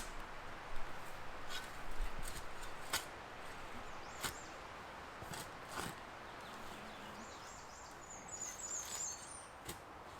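Scattered knocks and scrapes of a shovel working rocky ground outdoors. Near the end a bird chirps a quick run of high notes.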